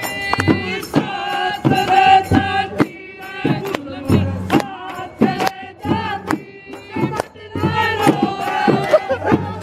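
A group of men singing a folk song together in chorus, with sharp percussive strikes keeping time.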